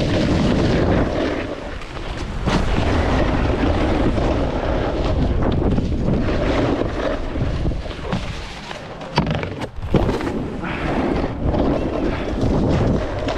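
Wind buffeting the microphone during a snowboard run, over the scraping hiss of the board sliding through snow, with a couple of sharp knocks about nine and ten seconds in.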